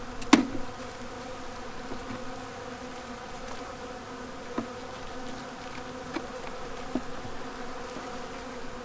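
Steady buzzing of a honeybee colony in an opened hive, from a colony with no brood that the beekeeper concludes is queenless. A sharp click sounds about a third of a second in, with a few faint ticks later.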